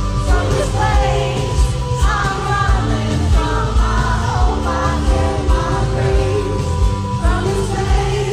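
Live pop music over a concert sound system: a steady, bass-heavy beat with a sung melody weaving above it.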